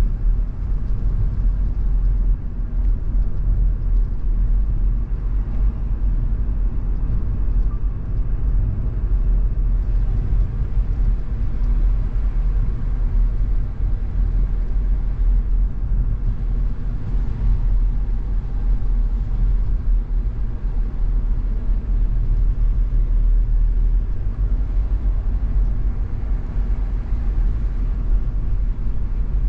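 Car driving at a steady speed: a continuous low rumble of engine and tyres on the road, unchanging in pace.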